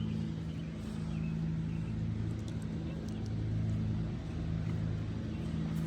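Steady low motor hum, like an engine running, with a few faint ticks or scrapes over it.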